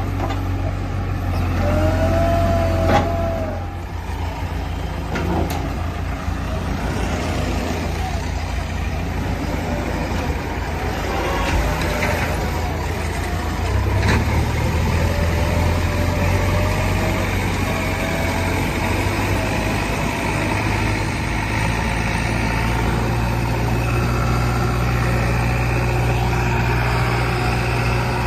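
Diesel engine of heavy machinery running steadily, its note stepping up about halfway through, with a thin wavering whine at times.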